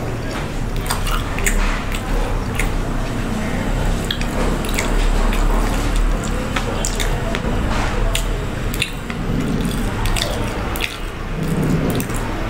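Close-miked chewing of fried chicken: wet smacking and squishing mouth sounds with many small, irregular crackly clicks.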